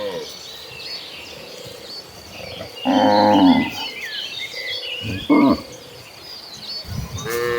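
Cattle mooing in a herd: a long, loud moo about three seconds in, a short one at about five and a half seconds, and another starting near the end.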